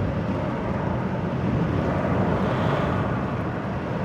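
Steady rushing noise inside a car driving through heavy rain on a flooded road: tyres on the wet road, with rain and wind on the car.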